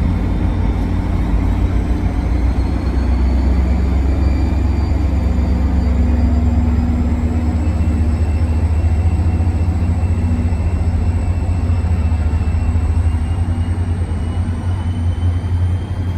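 Diesel New Jersey Transit train running at the station: a loud, steady low engine rumble, with a faint high whine that slowly rises in pitch.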